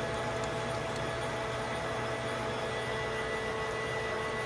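Machine tool running steadily while machining a small metal part, a constant hum with a few steady tones.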